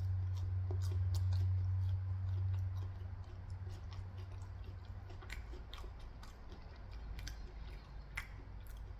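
Close-miked chewing of food, mouth noises with many scattered short sharp clicks; a deep low rumble underlies the first few seconds.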